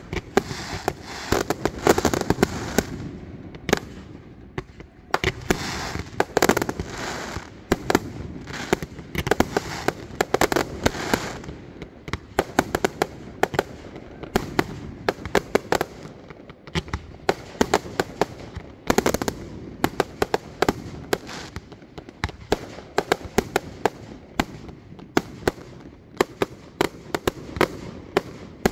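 Fireworks display: aerial shells bursting in a rapid, dense string of sharp bangs over continuous crackling, loudest in the first few seconds.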